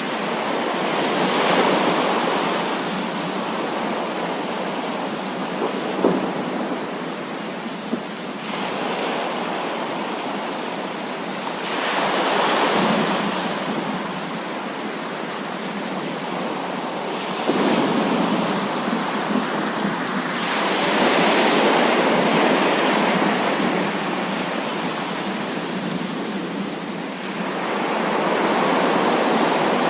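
Heavy rain falling steadily, with rolls of thunder that swell and fade several times. There is a sharp crack about six seconds in and a few more near the middle.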